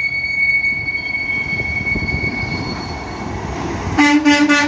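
Heavy truck traffic passing with a steady high-pitched whine, then near the end a short, loud blast of a truck air horn.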